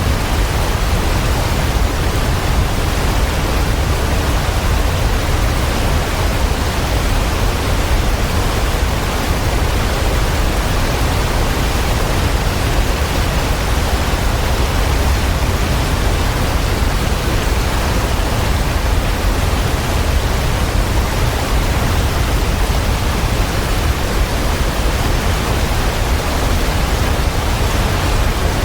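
Steady, even rushing noise with a heavy low rumble underneath, unchanging throughout.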